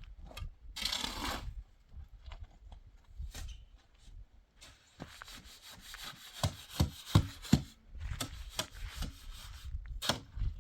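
Wood being handled and worked: rubbing and scraping, with a quick run of four or five heavy knocks about six to eight seconds in.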